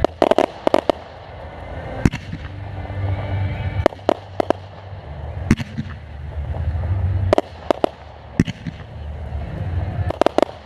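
Fireworks display: sharp bangs of shells and mortars going off about a dozen times, several coming in quick clusters, with a low rumble between them.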